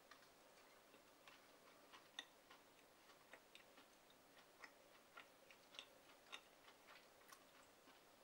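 Faint, irregular wet clicks of someone chewing a soft, syrupy griddle pancake close to the microphone, about two or three a second.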